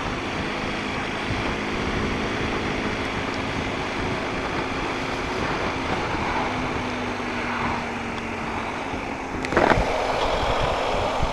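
BMW R1250 GS Adventure's boxer-twin engine running under way, heard mostly as a steady rush of wind and road noise with a faint engine hum. A brief knock about nine and a half seconds in.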